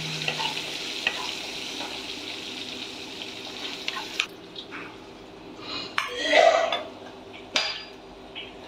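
Chana dal, urad dal, green chillies and curry leaves sizzling in oil in a nonstick kadai while a wooden spatula stirs and scrapes them. The sizzle dies away about four seconds in, leaving a few knocks of the spatula against the pan, the loudest about six and a half seconds in.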